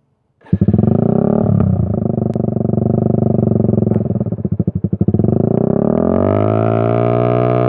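Motorcycle with an aftermarket exhaust (knalpot) starting up abruptly about half a second in and running loud and steady. Its pitch climbs gradually in the last couple of seconds as the engine is revved up.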